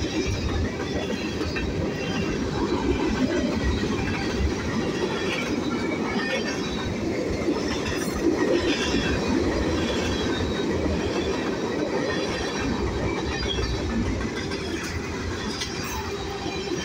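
Freight cars of a manifest train rolling steadily past at close range, their wheels running on the rails.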